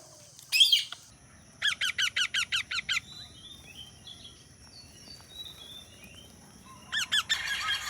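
Indian ringneck parrot calling: one loud shrill squawk, then a rapid run of about ten shrill calls, faint chirping, and a few more loud calls near the end.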